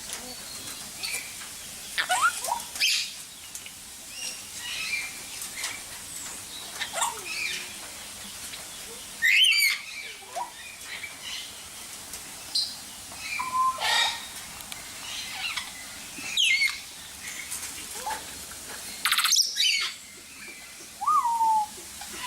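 Several birds chirping and calling in short, gliding notes, with three much louder calls standing out at about a third, two-thirds and near the end of the stretch.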